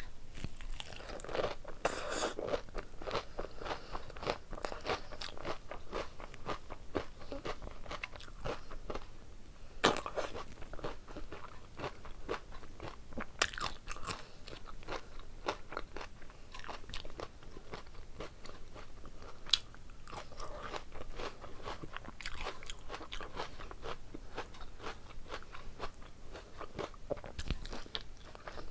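Close-miked chewing of mouthfuls of hand-mixed rice and curry: wet mouth clicks, lip smacks and crunchy bites, packed closely together, with a few sharper clicks standing out.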